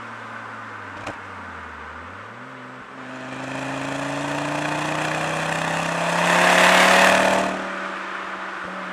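Ford Focus ST's turbocharged five-cylinder engine through a Milltek resonated exhaust. After a click about a second in, its pitch dips and comes back, then it climbs steadily as the car accelerates. The engine is loudest around six to seven seconds in, then eases back to a steady cruising note.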